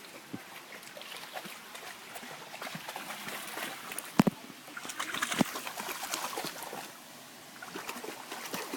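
Cocker spaniel splashing in shallow water, with two sharp splashes about four and five and a half seconds in.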